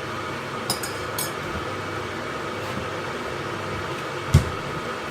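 Steady hum of a running appliance, with a few light clicks about a second in and a single dull thump near the end.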